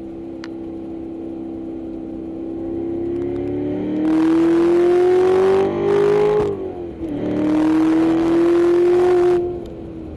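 Corvette C7's 6.2-litre V8 heard from inside the cabin, pulling hard under heavy throttle with its note climbing. The pitch drops once, about two-thirds of the way through, as at an upshift, and the engine pulls loud again before easing back near the end.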